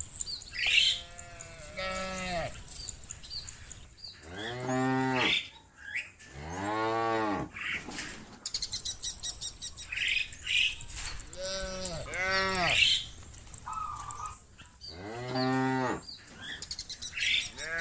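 Cows mooing, about six long moos in turn, each rising then falling in pitch. Faint bird chirping, quick and high, runs between them about halfway through.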